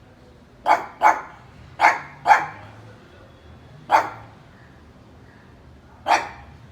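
A pug barking: six short, sharp barks, first in two quick pairs, then two single barks with long gaps between them.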